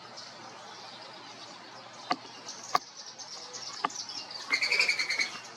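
A bird gives a short, rapid, pulsing call near the end, over faint high chirping and a steady hiss of outdoor background noise. A few sharp clicks come before it.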